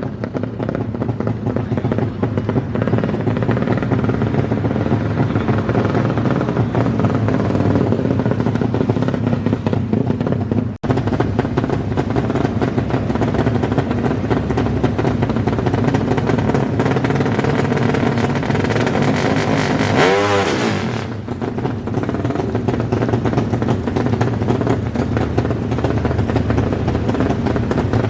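Drag-racing motorcycle engines with DOHC heads running loud and revving hard, with a brief drop-out a little before halfway and one engine's pitch sweeping sharply about two-thirds of the way in.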